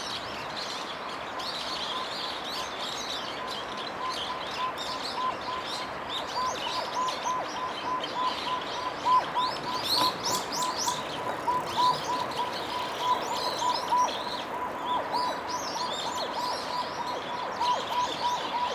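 Several small birds chirping and twittering in overlapping high calls. From about six seconds in, a rapid, even series of short lower notes, several a second, repeats steadily beneath them.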